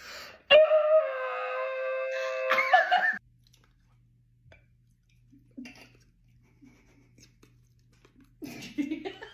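A person's voice holding one high, steady note for about two and a half seconds, dropping slightly in pitch after the start and cutting off abruptly.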